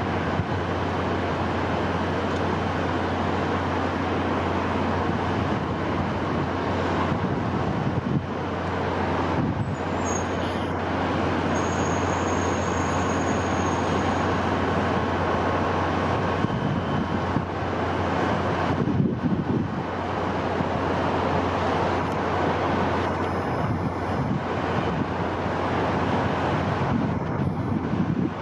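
Steady wind: a continuous rushing noise that swells and eases a little, over a constant low hum.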